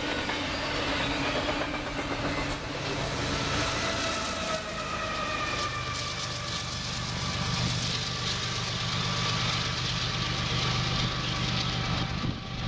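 Freight train passing at speed: diesel locomotives, including a leased Citirail GE ES44AC, run with a steady engine drone over rolling wheel noise. A multi-note locomotive horn drops in pitch as the lead units go by, near the middle.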